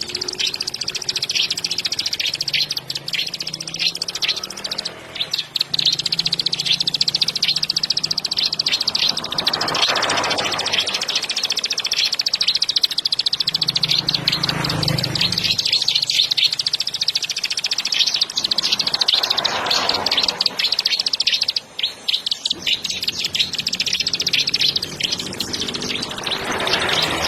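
Long-tailed shrike (cendet) singing non-stop: a dense, fast stream of short chattering notes without a break.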